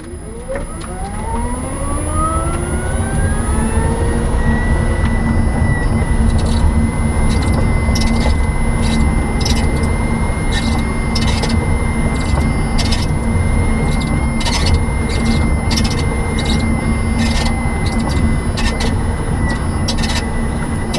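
Nissan Leaf electric drive motor whining, the pitch rising over about four seconds as the car accelerates and then holding steady at cruising speed, over steady road and tyre rumble. Short high clicks or ticks recur from about six seconds in.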